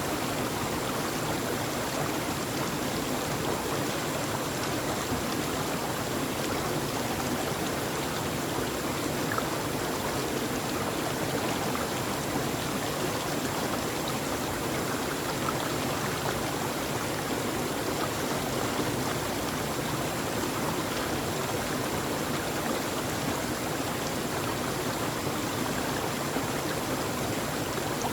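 Flowing stream water: a steady, even rush with no breaks or changes, played as continuous white noise.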